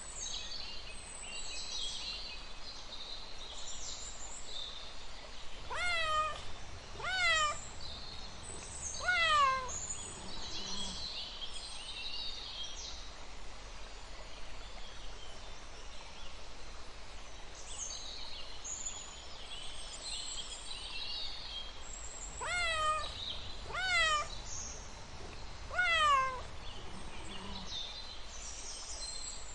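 Domestic cats meowing: two runs of three meows about fifteen seconds apart, each call rising and then falling in pitch.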